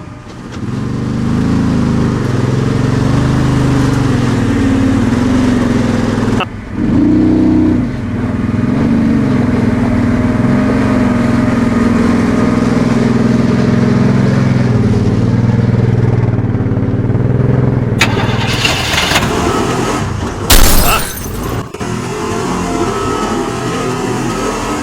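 Arctic Cat UTV engine running at low revs, its pitch rising and falling as the machine crawls over rocks. Near the end the sound turns rougher, with a loud knock.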